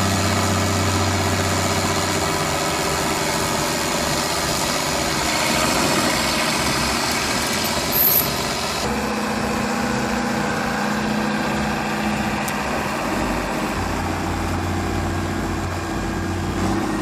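Diesel engine of an International Harvester 5288 tractor running steadily as it works at pulling stumps. There is a short click about eight seconds in, and the engine's sound changes character just after.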